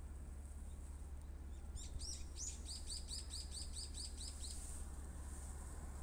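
A small bird singing a fast run of repeated high chirps, about five a second, starting about two seconds in and lasting about three seconds, over a steady low hum.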